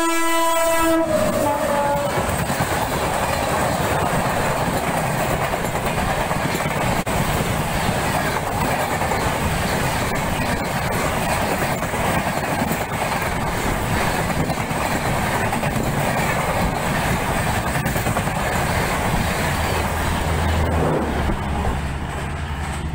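Indian Railways electric locomotive sounding its horn as it passes, the pitch dropping as the horn ends about a second in. The express train's coaches then pass at speed, a loud, steady rail noise that eases near the end as the train draws away.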